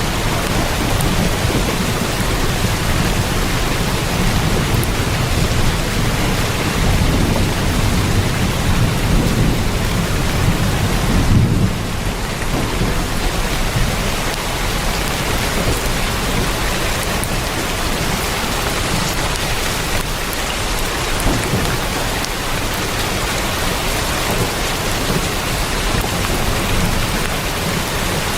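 Heavy rain on a tin roof: a dense, steady hiss, with a deeper low rumble in the first part that drops away about twelve seconds in.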